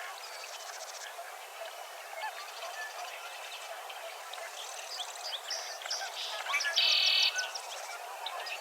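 Dawn chorus of many birds chirping and calling. About seven seconds in there is a louder, harsh buzzy call lasting about half a second.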